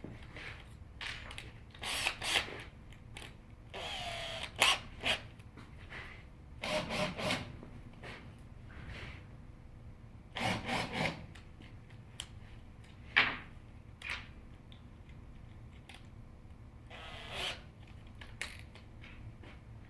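Intermittent woodworking on a wooden birdhouse: a power drill runs briefly about four seconds in and again near the end. Between the runs, wood pieces scrape and rub, with a few sharp knocks.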